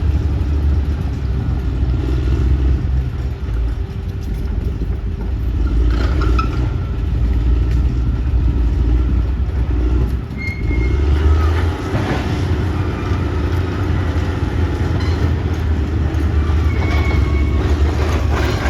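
Caterpillar D6R XL bulldozer's diesel engine running steadily under working load, its pitch easing and rising as it works, with scattered squeaks and clanks from the steel tracks.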